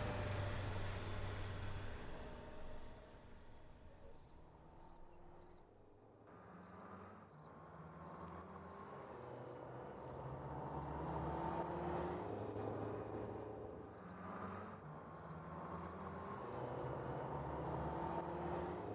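Crickets chirping at night: a fast high trill for about the first eight seconds, then evenly spaced chirps a little under a second apart, with low sustained tones underneath.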